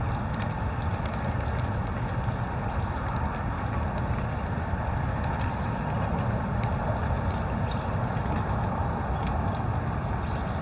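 Steady rumbling outdoor noise, like wind on the microphone, with faint scattered clicks.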